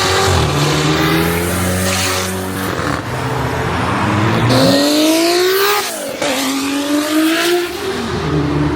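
A performance car's engine revving as it accelerates away from the meet, climbing in pitch and passing close by about six seconds in, with other engines idling around it.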